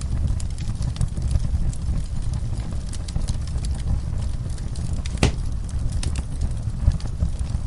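Wood fire in a fireplace crackling over a steady low rumble, with scattered small pops and one sharp, loud crack about five seconds in.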